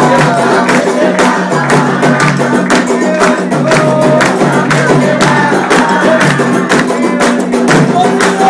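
Candomblé ritual music: voices singing a chant over a steady beat of hand percussion.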